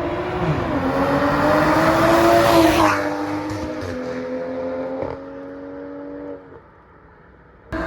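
A car engine running loud, its pitch rising over the first few seconds, then dropping and holding steady before it fades away about six and a half seconds in.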